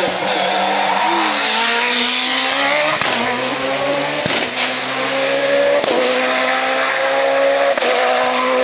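Hillclimb race car's engine accelerating hard, its pitch climbing and then dropping at each upshift, about four gear changes in quick succession.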